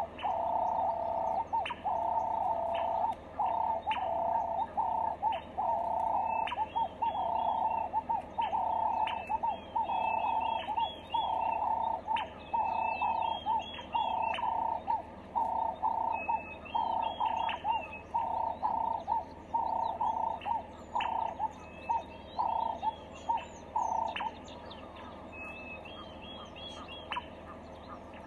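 Birds calling in quick repeated bursts, with higher looping chirps over them. The louder calls stop about 24 seconds in, leaving a fainter background.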